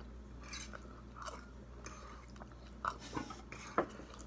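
A person chewing food, with a few brief crunches and clicks.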